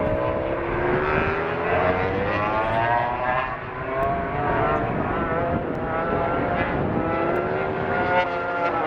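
Several MotoGP four-stroke racing bike engines running hard together, their pitches rising and falling against one another as the bikes accelerate, change gear and pass.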